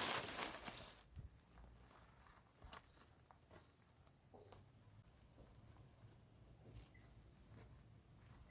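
A brief rustle, then insects chirping in a forest: a high, fast pulsing trill at about six pulses a second with a still higher whine that comes and goes. Scattered light taps run through it.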